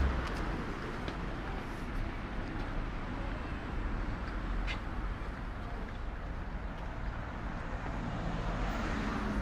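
City street ambience: steady road traffic noise with a low rumble, and an engine hum growing near the end as a vehicle comes closer.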